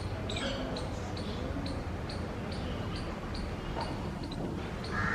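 Birds calling: a steady series of short, high chirps, about three a second, over a low background rumble, with a crow cawing right at the end.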